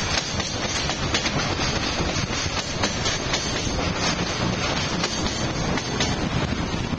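Freight train being shunted, its wagons rolling past with steady wheel rumble and irregular clacks of wheels over rail joints.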